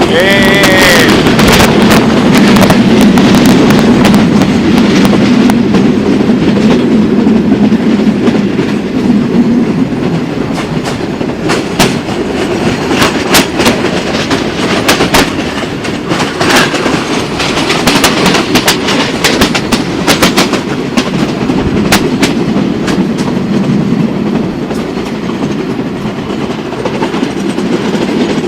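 Passenger train running along the line, heard on board: a steady rumble of the carriages with wheels clicking over the rail joints again and again. A brief wavering tone sounds in the first second.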